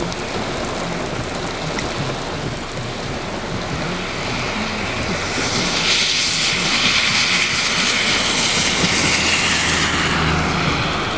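Heavy rain hissing on wet pavement over a low, steady engine hum from a vehicle. The hiss swells much louder about halfway through and eases off near the end.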